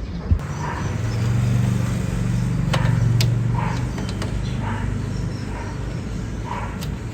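Car engine running steadily with a low hum that swells for a few seconds after a sudden thump near the start, then settles. A dog barks repeatedly in the background.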